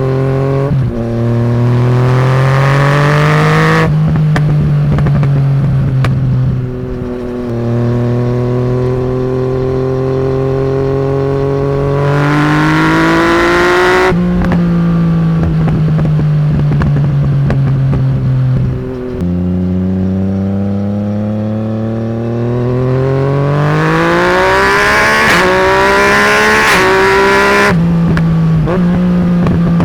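Yamaha MT-09's inline-three engine through a straight-pipe de-cat exhaust, loud, pulling through the gears. The pitch climbs steadily and then drops sharply at each change, several times over.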